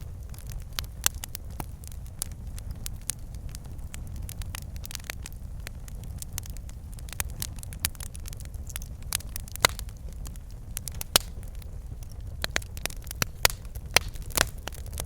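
Wood fire burning in a fireplace: logs crackling and popping in irregular sharp snaps over a steady low rumble of the flames, with a few louder pops in the second half.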